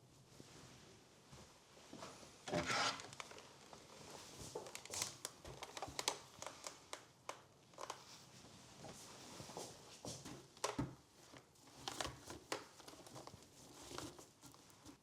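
Crinkling and rustling of something being handled, with scattered light clicks and knocks; the loudest crinkle comes about two and a half seconds in.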